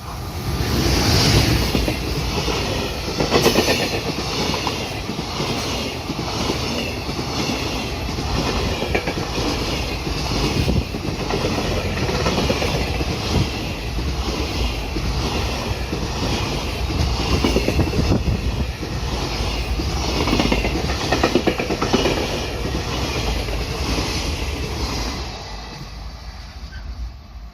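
Freight train passing close by, its wagons' wheels clattering over the rail joints in a steady repeating rhythm. It rises about half a second in and fades away near the end.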